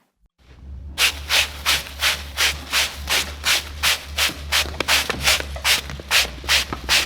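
Rhythmic rasping, about three strokes a second, over a steady low hum.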